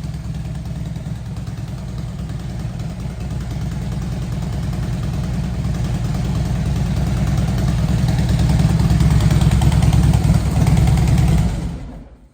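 Harley-Davidson Softail Deluxe's Twin Cam 103 V-twin running through a Vance & Hines exhaust, with a loping idle that grows steadily louder over several seconds. The sound cuts off abruptly near the end.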